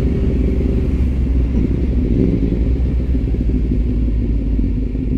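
Sport motorcycle engine running steadily while cruising at about 50 km/h, a continuous low rumble.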